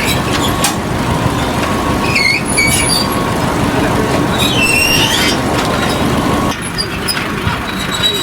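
Loud, steady machinery running, with a few short high-pitched squeaks over it; a steady hum in it stops about six and a half seconds in.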